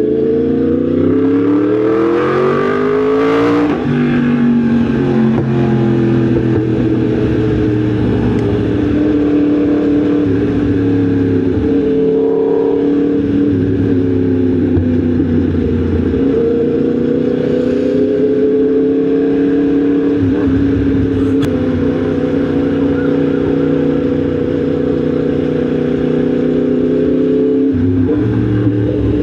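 Yamaha MT-10 SP's crossplane inline-four engine running under way: it rises in pitch for the first few seconds, drops sharply at an upshift, then holds a fairly steady cruise, with another change in engine speed near the end.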